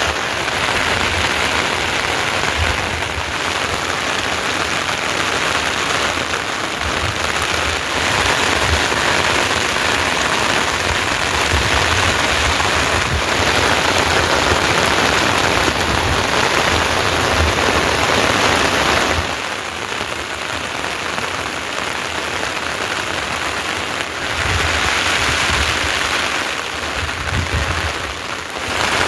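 Heavy rain falling steadily, easing a little for a few seconds past the middle and then picking up again.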